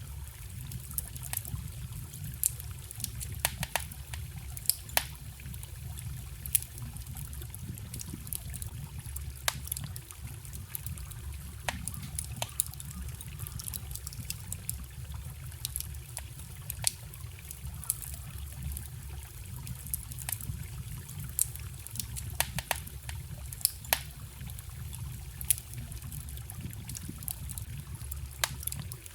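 Wood fire crackling and popping in frequent, irregular sharp snaps, over the steady trickle and babble of a small forest stream.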